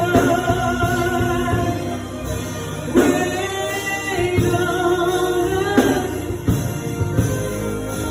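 Gospel music: voices singing held notes with vibrato over an instrumental accompaniment.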